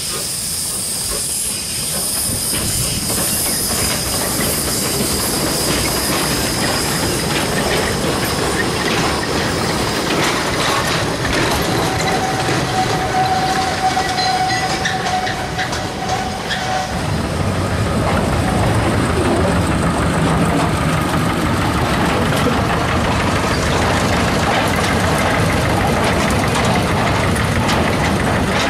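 Narrow-gauge train passing: steam hiss in the first half, then from about halfway through the steady running of a small diesel locomotive's engine close by, with its train of steel skip wagons rattling and clicking over the rail joints. A thin squeal sounds for a few seconds around the middle.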